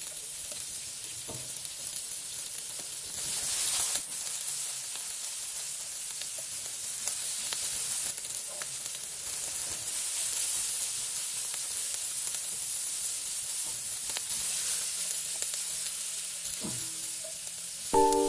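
Sliced onions and chopped sweet peppers sizzling steadily in hot olive oil in a wok, with a few light knocks from a silicone spatula stirring them.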